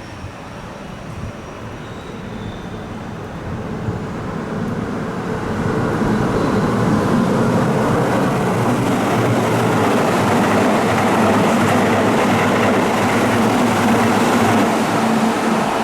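A Keihan electric train approaching along the elevated track, its rumble growing louder over the first six seconds, then running past close by with a steady noise of wheels on rail and a faint hum from its motors.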